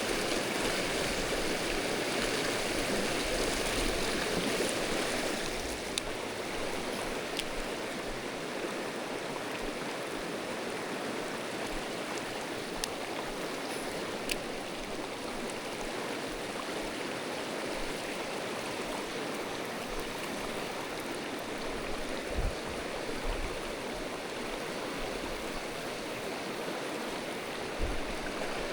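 Mountain stream water rushing and splashing over rocks in a steady wash, a little louder for the first six seconds. A few sharp ticks and a couple of short low thuds sound over it.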